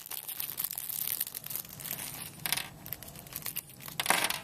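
Small plastic parts bags crinkling and rustling as they are handled and opened, with two louder crinkles, one about two and a half seconds in and one near the end.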